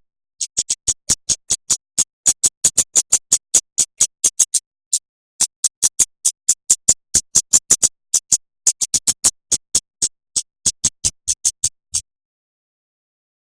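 Songbird masteran recording: a fast series of very short, sharp, high chip notes, about five a second, in runs broken by short pauses, stopping abruptly about a second and a half before the end.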